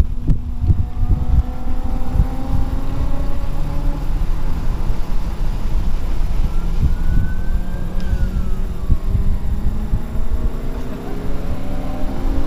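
Volkswagen Golf R's turbocharged 2.0-litre four-cylinder heard from inside the cabin at track pace, over a heavy rumble of road and tyre noise. The engine note sags at first, climbs briefly midway, then rises again near the end as the car accelerates.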